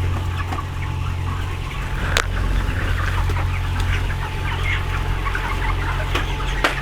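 A flock of broiler chickens chirping and clucking all at once, over a steady low hum that fits the shed's ventilation fans. A sharp click sounds about two seconds in and another near the end.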